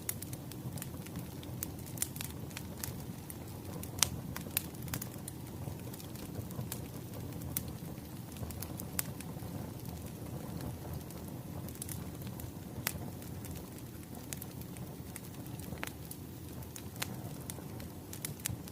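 A wood fire crackling: irregular sharp pops and snaps from burning firewood over a steady low rumble of the flames.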